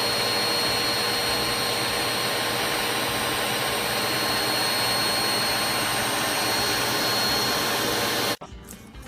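Steady, loud whirring of a motor-driven machine: rushing air with a constant high whine over it. It cuts off abruptly about eight seconds in.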